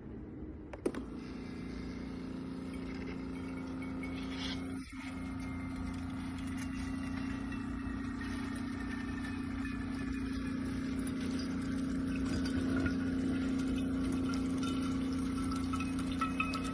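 Coffee maker brewing: a steady electric hum that switches on with a click about a second in, with liquid running into the cup or carafe.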